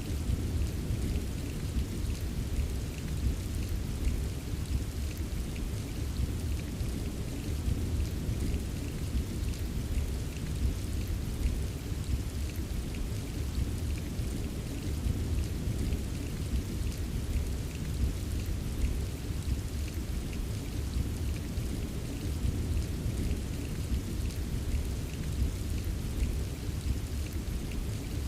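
Steady rain with many small drop taps, over a continuous low rumble of distant thunder.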